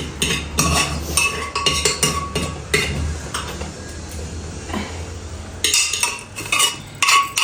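Metal spoon clinking and scraping against a pot while stirring and scooping food, in quick irregular strokes that ease off for a couple of seconds midway and then pick up again.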